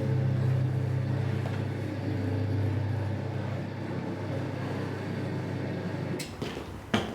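A rug-cleaning machine's motor running with a steady low hum. The sound changes abruptly about six seconds in, and a sharp knock comes near the end.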